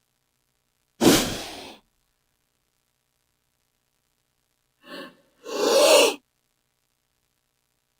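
King cobra hissing in forceful, breathy bursts: one sharp hiss about a second in that fades quickly, then a short puff followed by a louder, longer hiss around five to six seconds in.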